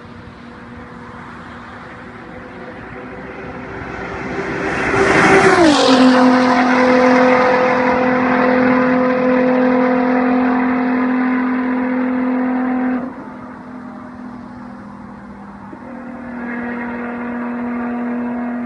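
Nissan GT-R R35's twin-turbo V6 through a loud exhaust, passing by at speed: the note grows louder, then drops in pitch as the car goes past about five seconds in, and holds a steady drone as it pulls away. The sound cuts off abruptly near the two-thirds mark, and a steady exhaust note builds again near the end.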